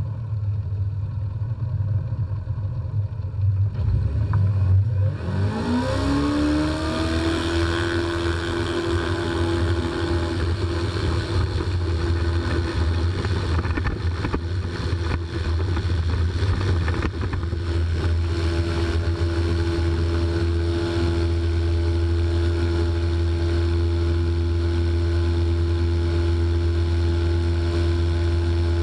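Ultralight trike's Honda 600cc engine and propeller running, revving up about five seconds in and then holding a steady, higher whine.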